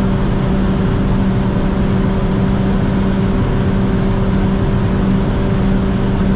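Mini Clubman JCW R55's turbocharged four-cylinder engine held at steady high revs at autobahn speed, heard from inside the cabin as an even drone over wind and road noise. The car is barely gaining speed near its top end, which the driver finds disappointingly slow.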